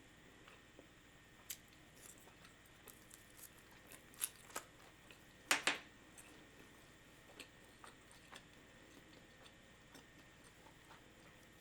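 Faint chewing and mouth clicks of someone eating, with scattered sharp clicks; the loudest come a little past four seconds in and again about five and a half seconds in.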